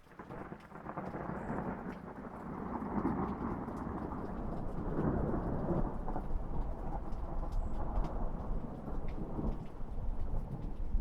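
A long roll of thunder over rain. It comes in suddenly, swells over the first few seconds and keeps rumbling steadily.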